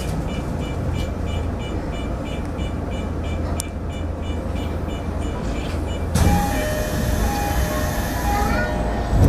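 Electric commuter train running, heard from the driver's cab: a steady low rumble of wheels on rail. A rapid repeating high beep stops about four seconds in, and about six seconds in a sudden rush of hiss with steady whining tones sets in, ending with a thump.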